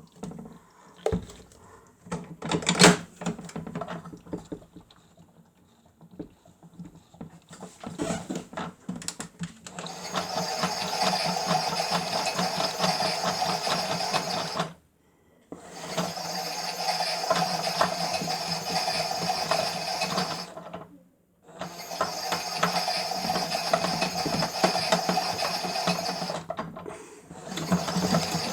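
Miele W1 toy washing machine's small motor turning the drum in runs of about five seconds, stopping briefly twice, with scattered clicks and knocks in the first seconds. This is drum tumbling during the rinse, before the spin.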